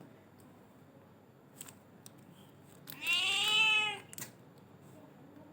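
Domestic cat meowing once, a single meow of about a second whose pitch rises and then falls, a few seconds in.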